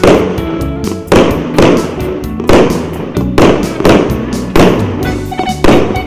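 Multi-shot fireworks cake (battery of 0.8–1 inch shots) firing, bangs coming about twice a second, each with a short rumbling tail. Music plays under the bangs.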